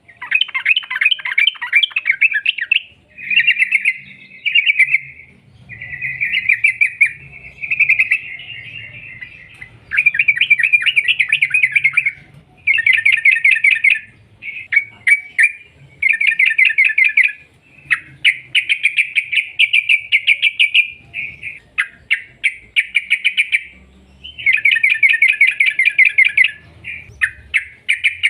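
Yellow-vented bulbul (trucuk) singing in long, rapid chattering bursts, phrase after phrase with short pauses between.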